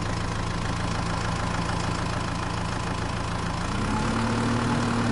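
Heavy vehicle engine idling steadily, then revving up a little about three and a half seconds in and holding the higher pitch.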